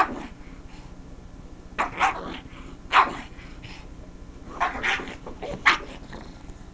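Pug barking and yelping in short bursts, in a handful of outbursts a second or so apart, set off by the sound of someone scratching the couch.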